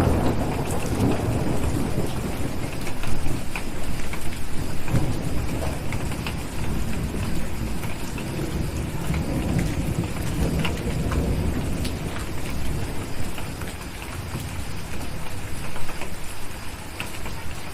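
Steady rain with a low rumble of thunder that rolls on and dies away toward the end, and scattered sharp crackles from a wood fire.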